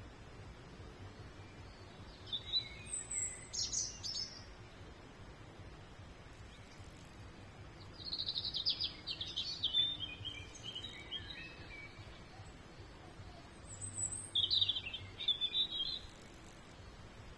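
A songbird singing three separate phrases with pauses between them, the middle one a longer trill that falls in pitch, over faint outdoor background noise.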